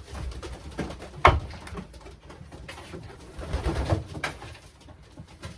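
Racing pigeons cooing in a loft, with a sharp knock about a second in and a short spell of low bumping and rustling later.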